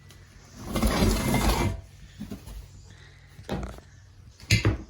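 Debris being handled and moved: a scraping rustle about a second in, then a few light clicks and two sharper knocks near the end.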